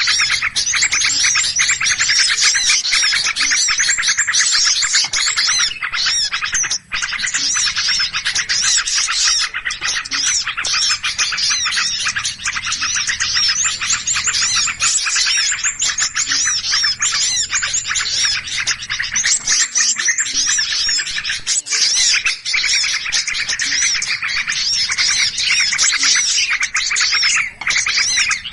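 Dense chorus of many small birds chirping and calling at once, with no let-up: the agitated 'noisy birds' chatter played as a lure to draw in birds for trapping.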